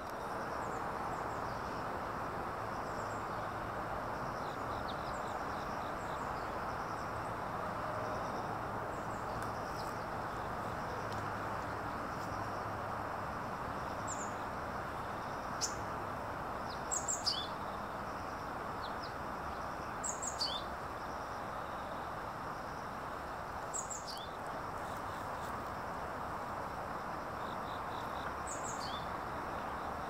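A small songbird calling: a short, high note falling steeply in pitch, given four times about three to four seconds apart over steady background noise.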